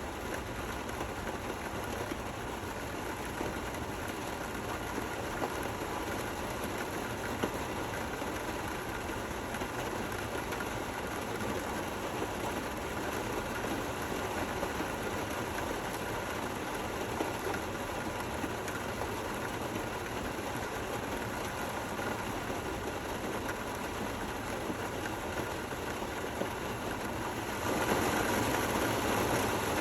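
Steady rain falling, an even hiss with a few small clicks, growing louder about two seconds before the end.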